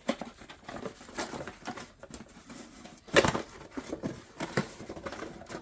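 A run of irregular light clicks, taps and rustles from things being handled, with one louder knock about three seconds in.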